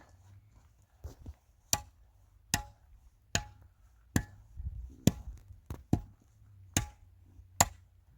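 About a dozen sharp knocks, a little more than one a second in an even rhythm, each with a short ring after it, like repeated chopping or striking blows.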